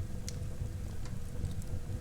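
Wood fire burning in a fireplace: a low steady rumble of flames with scattered sharp crackles and pops from the burning wood, one stronger pop about a third of a second in.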